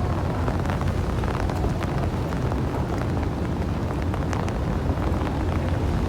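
Steady rain with scattered drop ticks over a continuous low rumble.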